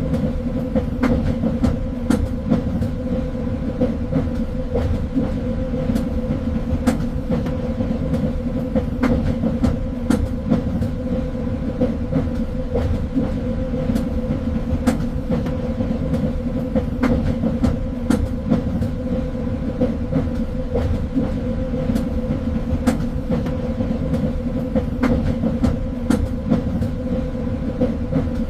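Train running on rails: a steady low rumble with a constant hum, and sharp clicks every second or two from the wheels.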